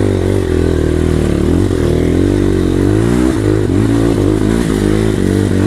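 Dirt bike engine revving hard and unevenly, its pitch rising and falling as the bike is worked through a muddy hole, with a few knocks partway through.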